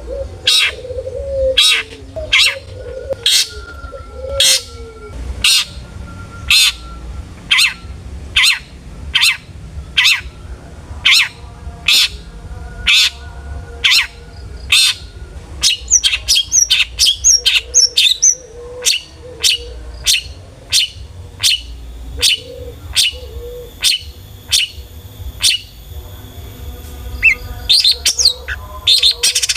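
Long-tailed shrike (cendet) singing: a steady string of short, harsh notes, about one and a half a second, broken by quick high chirps about halfway through and a busier run of notes near the end.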